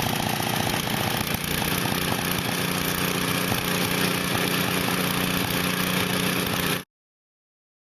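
5-horsepower snowblower engine running steadily at a loud level. It cuts off suddenly about a second before the end.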